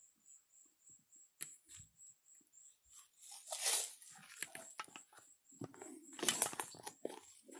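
Irregular crunching and rustling of dry leaves and twigs underfoot, loudest twice, about halfway through and again near the end. An insect chirps faintly in quick, even pulses, about five a second, throughout.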